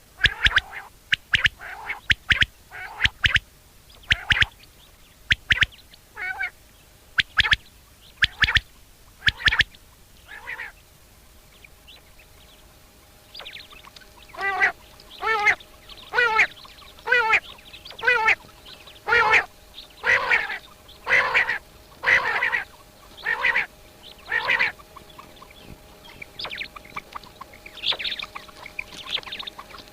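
Common quail calling: sharp, short notes repeated in quick groups, then after a pause a run of lower, harsher calls about one a second.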